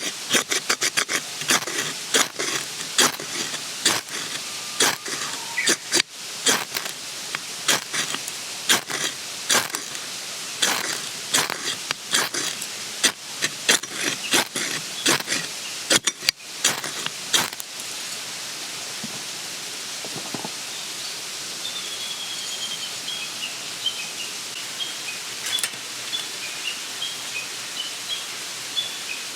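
Irregular sharp clicks and knocks, many in quick succession, for the first two-thirds. Then a steady background hiss, with a small bird chirping a quick run of falling notes near the end.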